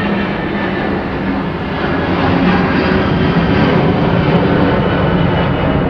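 Jet airliner's engines during a departure climb: a loud, steady rush of engine noise that swells a little about two seconds in and holds.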